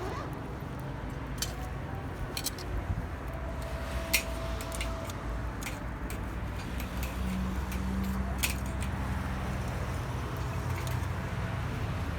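Wood campfire crackling with scattered sharp pops, over a steady low rumble.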